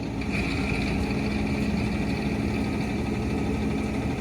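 Vehicle engine running steadily at idle, with a steady high-pitched tone coming in just after the start.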